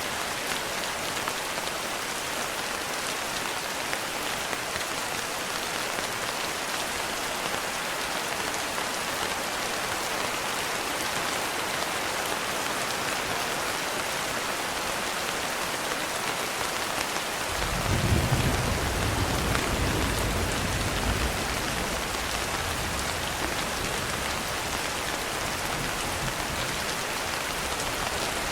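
Steady rain falling as an even hiss of drops. About two-thirds of the way in, a low rumble of thunder swells, is loudest for a few seconds, then slowly fades under the rain.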